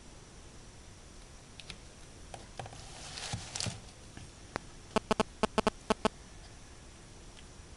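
Handling noise from craft supplies: a short rustle, then a quick cluster of about eight sharp, slightly ringing taps or clicks lasting about a second.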